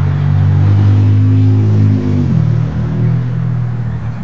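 A motor vehicle's engine running, steady and loud, its pitch dropping a little about two seconds in, then easing off slightly toward the end.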